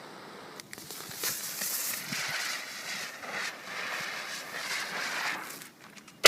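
Nezumi hanabi, a spinning ground firework, hissing and crackling as it spins for about five seconds, then going off with one sharp bang at the very end.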